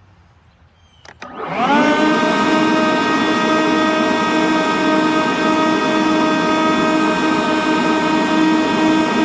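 Leaf blowers switched on with a click about a second in, spinning up in a quick rising whine and then running at a steady, loud whine over a rush of air.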